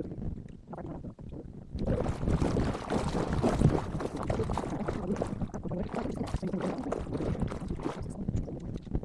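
Kayak being paddled on a river, with water splashing off the paddle and wind rumbling on the exposed microphone of a 360 camera. The noise swells about two seconds in and eases near the end.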